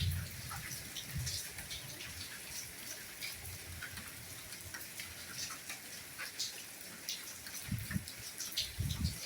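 Steady soft rainfall: a constant hiss with many separate drops ticking close by. A few dull low thuds come through, a couple near the start and a couple near the end.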